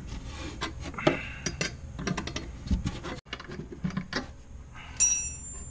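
Hand wrench work on a body-mount bolt: irregular metallic clicks and knocks as the bolt is turned and tightened. The sound breaks off abruptly a little after three seconds.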